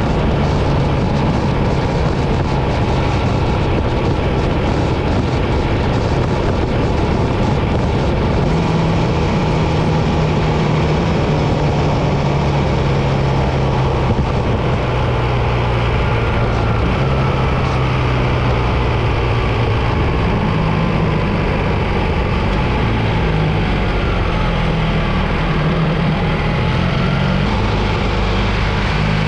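BMW R 1300 GS boxer-twin engine running under way, its low note stepping up and down with the throttle and gear changes, over a steady rushing of wind and road noise.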